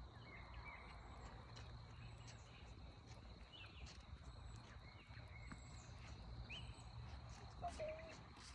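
Faint outdoor ambience: scattered short bird chirps over a steady high insect-like drone and a low rumble.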